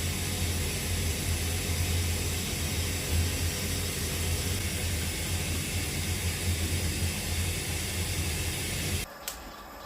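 A steady hiss over a strong low hum, like a running fan or motor, cuts off suddenly about nine seconds in, leaving a few faint clicks.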